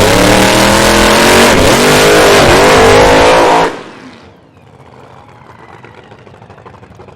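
Tuned car engine accelerating hard at high revs, its pitch dipping twice with gear changes. About three and a half seconds in, the engine sound drops away sharply, leaving a much quieter background.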